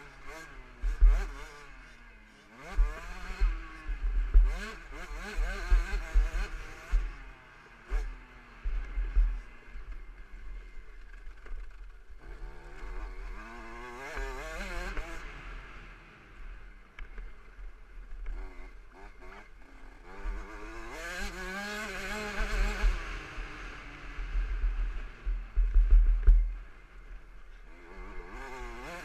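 KTM 65 SX two-stroke motocross engine revving up and dropping back again and again as the bike is ridden, with heavy wind rumble and sharp knocks on the microphone.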